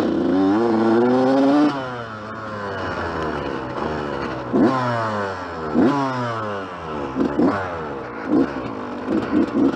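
Yamaha YZ125 two-stroke dirt bike engine revving under way: a hard pull climbing in pitch for about a second and a half, then dropping off, followed by a string of shorter rises and falls in engine speed as the throttle is worked.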